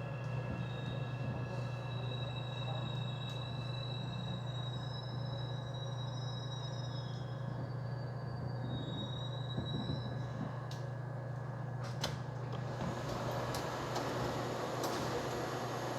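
Busan Metro Line 3 train car at a station stop, heard from inside: a steady low hum with thin high whining tones that shift in pitch and fade out. A couple of sharp clicks come about 11 and 12 seconds in, followed by a rushing hiss.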